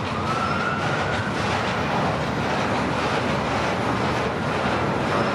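Long freight train rolling slowly past, with a steady noise of cars on the rails. A short rising squeal comes through in the first second.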